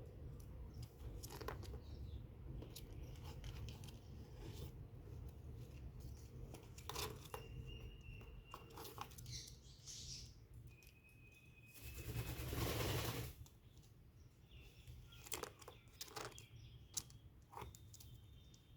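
Faint scratching, crunching and clicking of a cockatiel shifting about in its nest box bedding, with a louder scraping rush about twelve seconds in. A few faint, short, high peeps come through in between.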